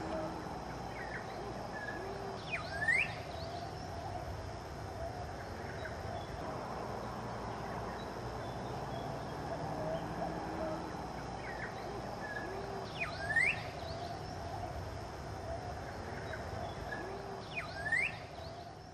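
Birds calling over a steady outdoor background hiss and hum. A sharp whistled call that sweeps quickly down and then up stands out three times: about three seconds in, about thirteen seconds in, and near the end.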